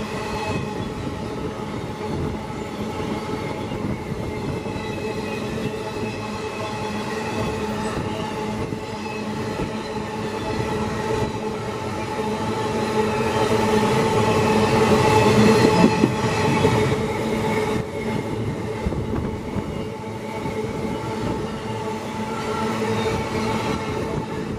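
Empty iron-ore gondola wagons rolling past on the rails, a steady clattering rumble of wheels with a thin wheel squeal over it, swelling louder a little past the middle and then easing.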